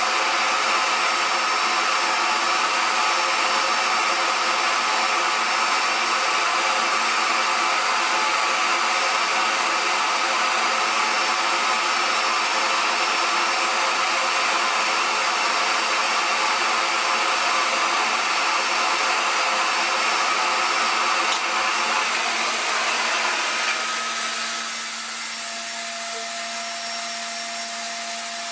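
RevAir reverse hair dryer running steadily, a loud airy whir with a held whine from its suction motor. About 23 seconds in it turns quieter and its whine drops lower.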